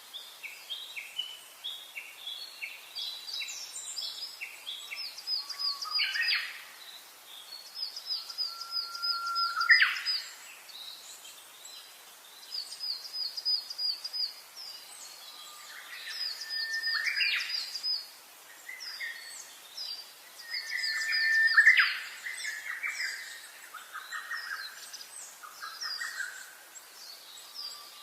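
Several songbirds singing together: quick runs of short, repeated high chirps over lower repeated notes, with a few rising whistles.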